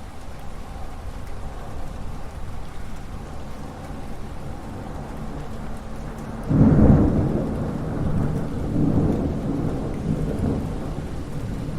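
Thunderstorm: steady rain with a distant low rumble, then a loud clap of thunder breaks in a little past halfway and rolls on, slowly dying away.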